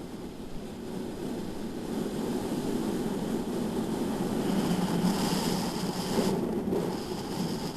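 Onboard sound of a BMW S1000RR sport bike's inline-four engine mixed with wind rush, a steady rumble that grows louder toward the middle, with a thin high whine joining about halfway through.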